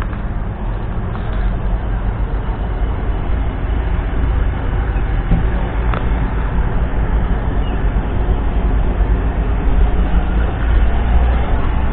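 Valtra T174's 7.4-litre six-cylinder diesel engine running steadily, growing gradually louder.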